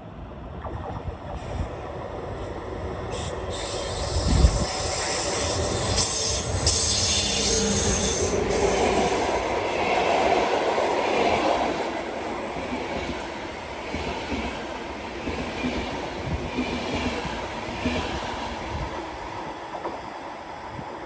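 Train approaching and passing on the railway line. It grows louder over the first few seconds, is loudest about six to twelve seconds in, then eases off while still running.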